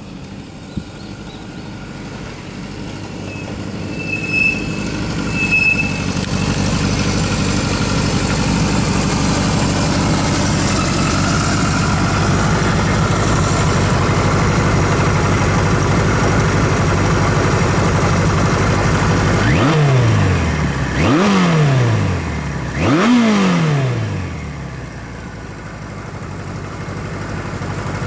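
Kawasaki KZ1000A air-cooled inline-four engine running, growing louder over the first several seconds and then holding steady. About twenty seconds in it is revved three times in quick succession, each rev snapping up and falling back over about a second, before settling down toward idle.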